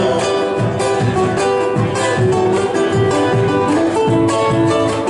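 Instrumental break in a sung Argentine folk song: acoustic guitar strummed in a steady, even rhythm between verses.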